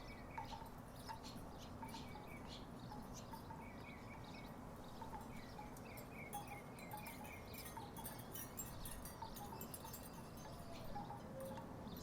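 Wooden tiki wind chimes knocking together in a breeze, giving scattered short hollow tones at uneven intervals, with a quick run of higher short notes near the middle.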